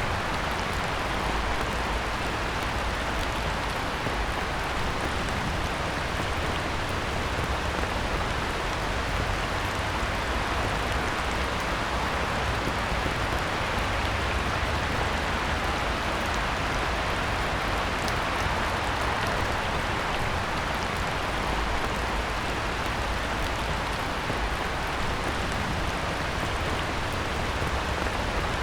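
Heavy rain falling steadily on a pond: an even, unbroken hiss of the downpour with a low rumble beneath it.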